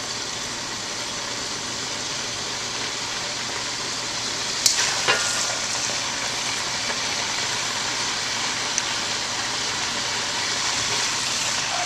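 Hot oil in a wok sizzling steadily after seafood has been oil-blanched in it, with two sharp knocks about five seconds in.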